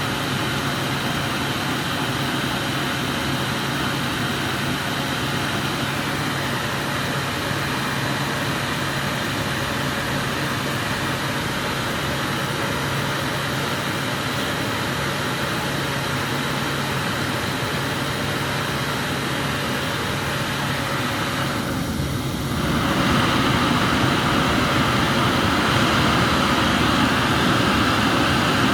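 Glassblower's gas burner flame hissing steadily, turned up and louder about 22 seconds in.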